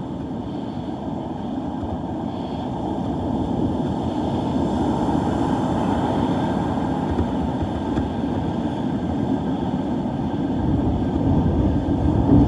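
Gusty storm wind buffeting the microphone as a steady low rumble, slowly growing stronger as the breeze picks up.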